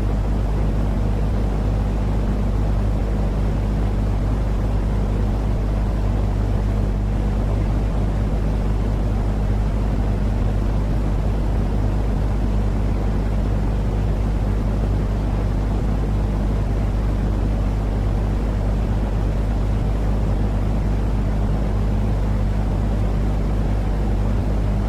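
Steady, deep rumbling noise with a low hum under it, an even sleep-aid noise for calming a baby.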